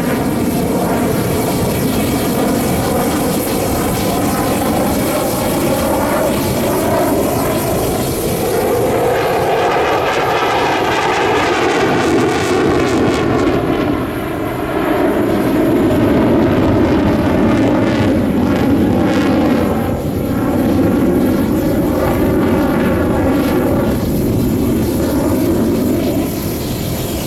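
Loud, continuous jet noise from the Russian Knights' fighter jets, with a wavering, shifting pitch as the aircraft move, and two brief dips in level partway through.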